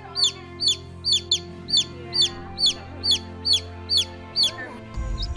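Chick peeping: a regular run of short, high, falling peeps, about two or three a second, over sustained background music tones. The peeps stop about four and a half seconds in, and a low rumble comes in near the end.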